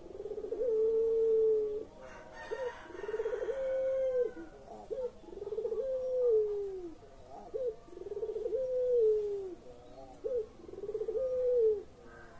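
Puter pelung turtle dove cooing in a repeated phrase: a short note, then a long drawn-out coo that drops in pitch at its end, about five times, one every two seconds or so.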